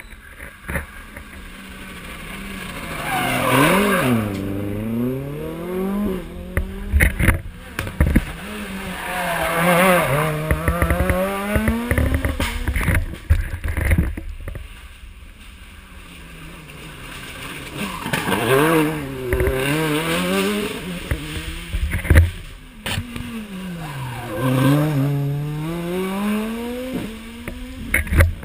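Rally cars taking a hairpin bend one after another, four times: each engine note drops as the car brakes and shifts down, then rises in steps as it revs up through the gears and away. Sharp cracks from the exhausts come along with them.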